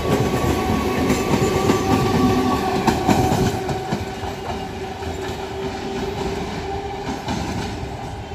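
MEMU electric train running past, its wheels clattering over the rail joints, with a steady whine over the top. The clatter is loudest in the first few seconds, and the sound grows fainter after that.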